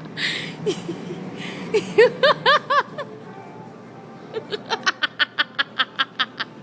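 People laughing hard: a breathy burst at first, a few high-pitched laughs about two seconds in, then a fast run of about a dozen short laughs near the end.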